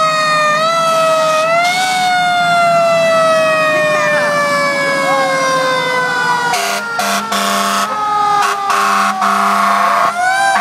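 Fire truck siren wailing, its pitch falling slowly with one short rise about two seconds in. From about six and a half seconds, repeated horn blasts sound over it, and the siren climbs again near the end.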